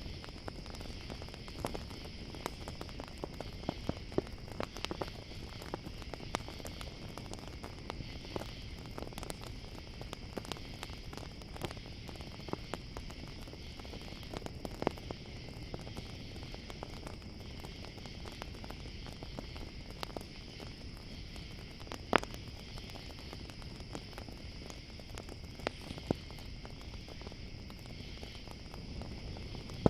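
Campfire crackling with irregular sharp pops, one louder pop about two-thirds of the way through, over a steady high chirring of crickets.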